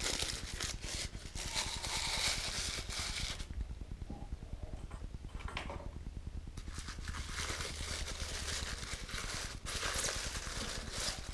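Packaging being handled while scale-model parts are unpacked: crinkling plastic wrapping with small clicks and taps, quieter for a few seconds in the middle.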